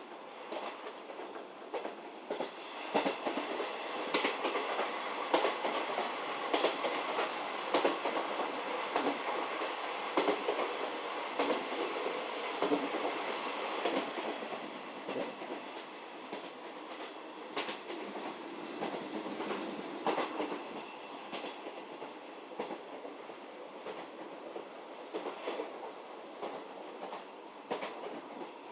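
711 series electric multiple unit running, heard from inside the carriage: steady running noise with wheels clicking over rail joints, louder in the first half and easing off a little past the middle.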